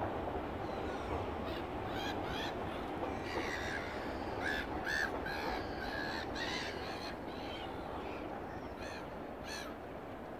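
Birds calling over the river, a dozen or so short calls in loose clusters through the middle of the stretch, over a steady low background hum.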